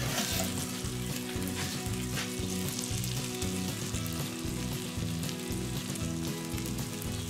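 Pork-filet puff-pastry parcels sizzling on a hot cast-iron plate over charcoal in an opened kettle grill: a steady frying hiss.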